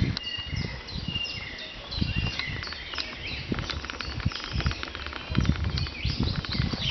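Small birds chirping, many short whistled chirps and falling notes one after another, over irregular low rumbles and thumps.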